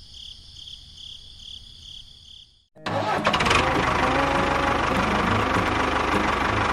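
A faint high-pitched pulsing drone. After an abrupt cut to silence about two and a half seconds in, a small motor starts running loud and steady, with a low hum under a broad rushing noise.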